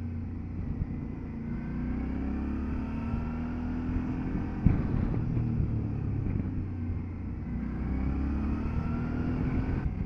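Motorcycle engine running on the move, its pitch rising and falling gently as the revs change, over the rush of wind and road noise. A single sharp knock about halfway through.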